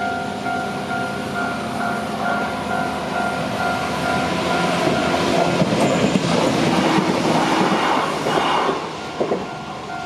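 Japanese level-crossing warning bell ringing in a steady repeating rhythm while a Shizuoka Railway electric train passes over the crossing. The train's rumble grows for several seconds, covers the bell, and then fades near the end, leaving the bell ringing.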